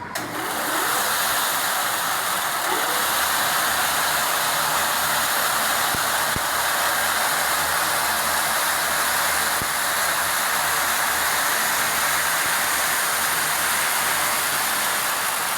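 Factory machinery running steadily with a loud, even whirring hiss that cuts in suddenly at the start.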